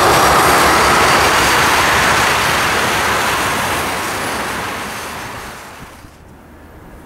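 Freight train of tank cars rolling past, with steady wheel-on-rail noise that fades away over the last few seconds.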